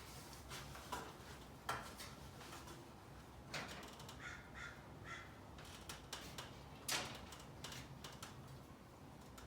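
Steel winding rods clinking and knocking against a garage door torsion spring's winding cone as the spring tension is let off: a few scattered sharp knocks with short squeaky sounds between them.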